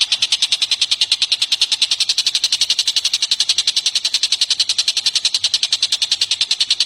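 A bird's rapid, even trill of about ten notes a second, high-pitched and unbroken, from a songbird masteran recording.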